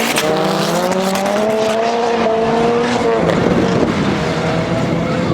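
Car engine under hard acceleration, its note climbing steadily for about three seconds, then dropping sharply and carrying on at a lower pitch.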